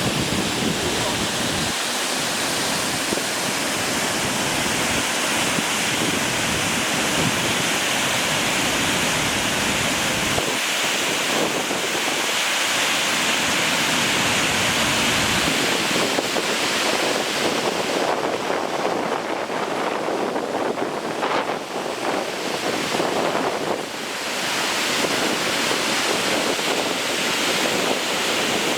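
Rain-swollen mountain waterfall rushing in a steady, dense roar, with wind buffeting the microphone at times.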